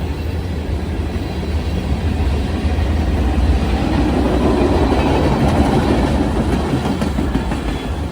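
CSX freight train rolling past, a steady deep rumble with wheels clacking over the rail joints.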